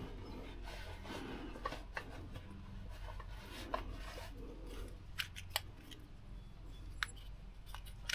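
Small hand-work noises: scattered sharp clicks and light rubbing as tools and wire are handled at close range, over a low steady hum.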